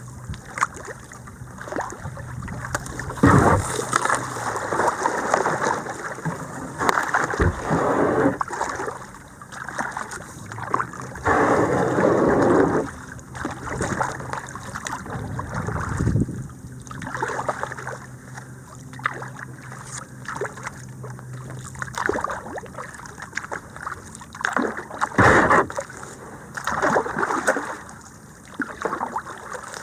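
Kayak paddle dipping and splashing in shallow creek water, irregular strokes with several louder splashes.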